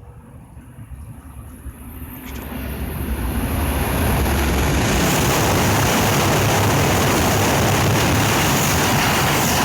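Tohoku Shinkansen Hayabusa–Komachi (coupled E5 and E6 sets) passing through a station without stopping at around 320 km/h. A rushing noise of air and wheels builds from about two seconds in and becomes loud and steady from about four seconds.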